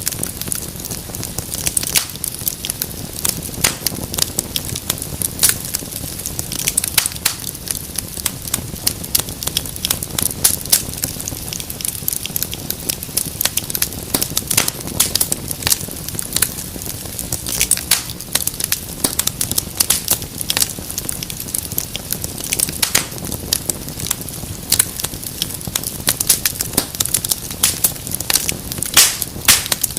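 Wood fire in a fireplace crackling, with many sharp irregular pops and snaps over a low steady rumble of the flames.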